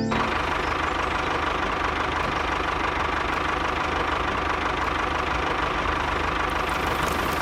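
A small machine motor running steadily at an even speed, with a faint steady whine over a low hum.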